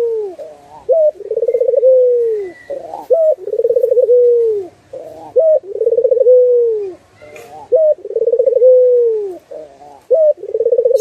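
Puter (Barbary dove) cooing: about five calls in a row, each a short rising note followed by a longer rolling coo that falls in pitch, repeating every two seconds or so.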